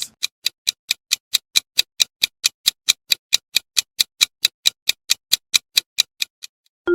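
Countdown-timer sound effect: a steady clock tick, about four and a half ticks a second, stopping just before a chime begins at the very end.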